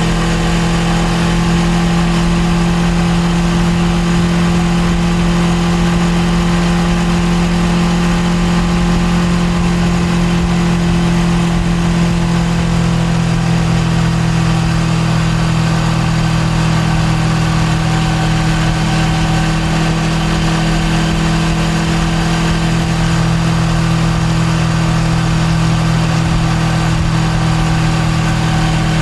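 Suzuki GSX250R's parallel-twin engine running steadily under way, holding a nearly constant pitch that eases slightly about halfway through.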